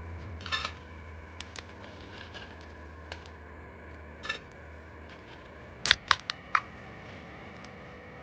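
Scattered sharp clicks and light knocks, the loudest a quick run of four clicks about six seconds in, over a low hum that fades out around five seconds.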